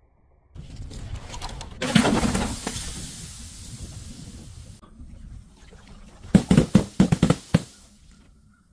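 Something being crushed: a crackling, hissing rush that sets in suddenly and fades over about three seconds, then a quick run of sharp cracks.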